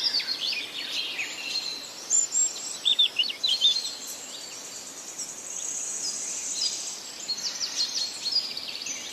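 Several birds chirping and singing at once: many quick, overlapping chirps, with a fast high trill in the middle.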